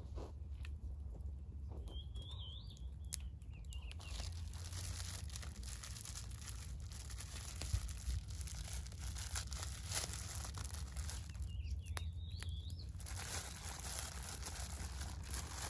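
Campfire crackling with scattered sharp pops, while a bird gives a short warbling call twice, a couple of seconds in and again near the end.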